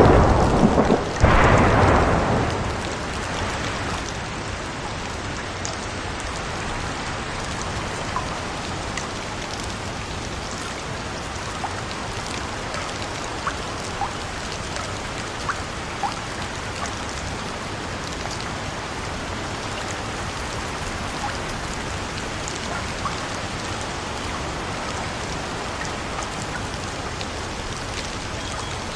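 A roll of thunder dies away over the first few seconds. Steady rain follows, with scattered faint ticks of single drops.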